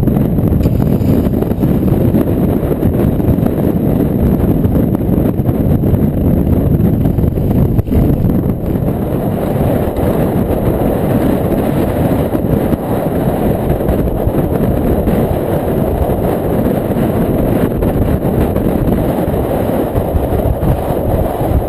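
Strong Bora wind blowing hard across the microphone: a loud, steady low-pitched buffeting that stays heavy throughout.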